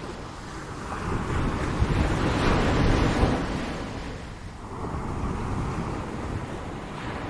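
Ocean waves breaking on a shore: a wave swells and crashes about two to three seconds in, then washes back, with a smaller wave about five seconds in. Wind rumbles on the microphone.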